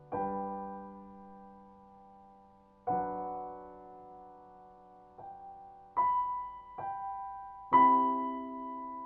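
Background piano music: slow, soft chords struck every second or few and left to ring out, the loudest chord near the end.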